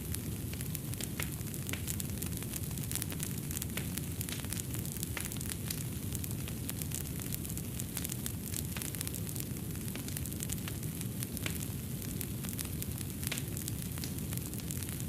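Fireplace fire crackling: many small sharp pops and snaps over a steady low rumble of burning flames.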